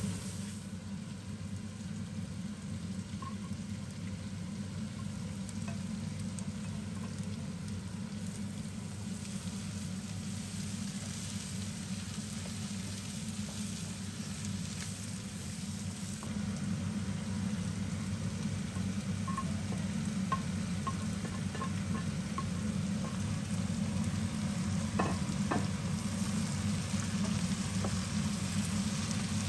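Meat and chopped onion sizzling in a hot wok and being stirred with a wooden spatula, a steady frying hiss over a low hum. A few light knocks of the spatula on the pan come near the end.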